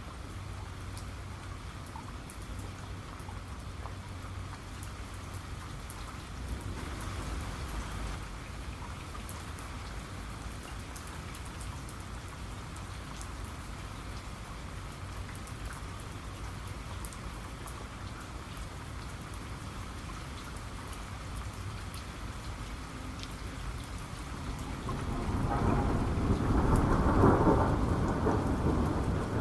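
Steady rain falling on a surface, with individual drops ticking, over a low thunder rumble; thunder swells louder about 25 seconds in and rolls on to the end.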